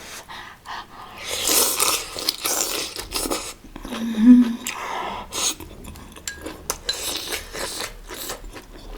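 Close-miked chewing and crunching of spicy malatang hotpot with black fungus, wet mouth noises and bites, with a brief hum partway through.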